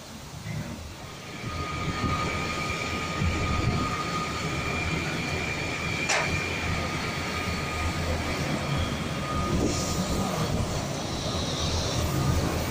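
Passenger train coaches rolling slowly through an automatic coach washing plant, a steady low rumble of wheels on rail. A steady high whine runs over it and stops about ten seconds in. There is a sharp click about six seconds in, and a hiss near the end.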